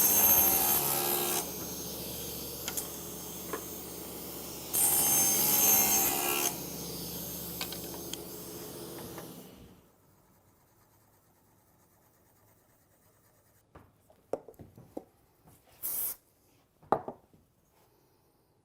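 Electric drill running and boring into wood for about nine seconds, louder twice while the bit cuts, then stopping; a few light knocks and handling clicks follow near the end.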